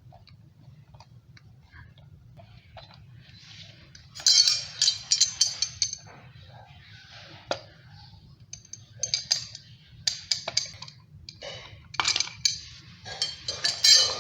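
Clinks and rattles of hard parts of an electric kettle and its lid being handled during a repair, in several short bursts, over a steady low hum.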